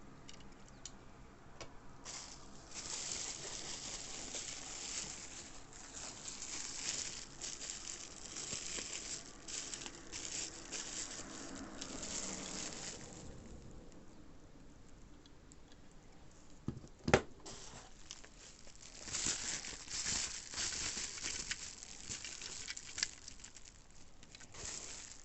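Packaging material rustling and crinkling as items are unwrapped by hand, in two long stretches, with a single sharp knock partway through.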